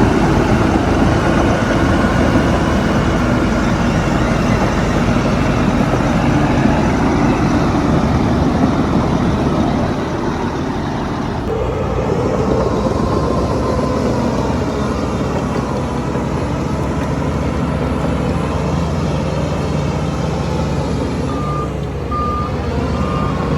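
Heavy diesel earthmoving machinery running steadily: bulldozer and dump-truck engines. The engine sound changes abruptly about halfway through, and near the end a backup alarm starts beeping at an even pace.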